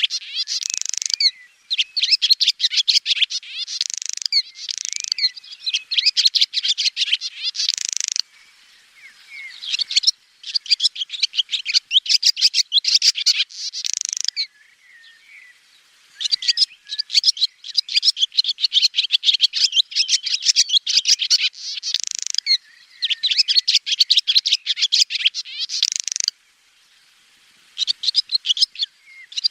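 Swallow singing: bouts of rapid, high twittering notes lasting several seconds each, broken by short pauses.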